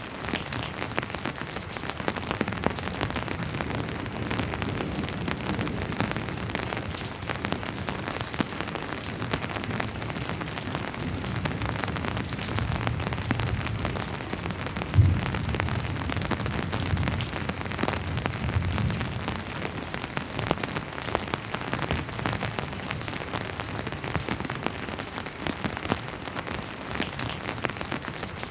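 Steady rainfall on a surface, a dense patter of drops. About halfway through a low rumble of distant thunder swells in for several seconds, with one sharp low thump in the middle of it.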